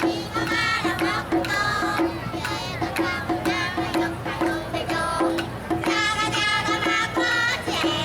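Japanese taiko drums played along with a Japanese folk song (min'yō), with a singer's wavering melody and a steadily pulsing accompaniment.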